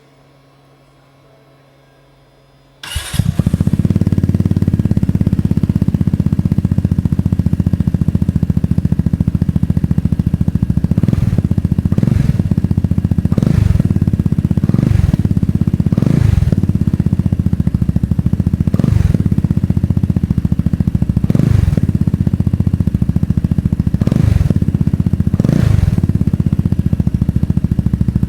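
Lambretta X300 scooter engine breathing through a ZIIV Project SP aftermarket exhaust: after a faint hum it starts about three seconds in and settles into a steady idle. From the middle on it gets a string of short throttle blips, each revving up and dropping back to idle, every one to three seconds.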